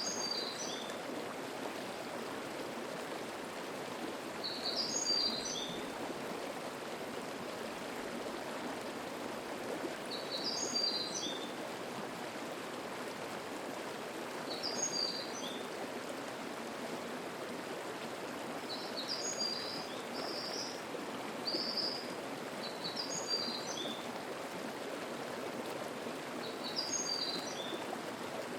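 A mountain stream flowing steadily, with a songbird singing a short high phrase over it about every four to five seconds, the phrases coming closer together a little past the middle.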